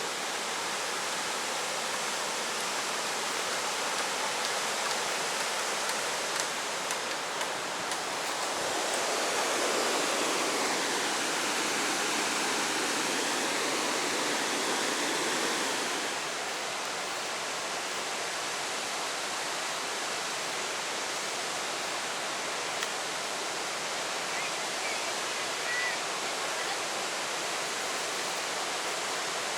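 Steady rush of falling water from a waterfall, an even noise. It grows louder for several seconds in the middle, then drops back suddenly.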